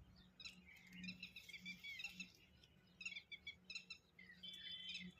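Several small birds chirping and twittering in quick, overlapping bursts of short high calls, with a faint steady low hum underneath.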